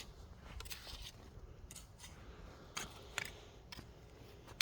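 Short, sharp scrapes and scratches at irregular intervals, about six in all, over faint background hiss: hand digging in soil to unearth sweet potatoes.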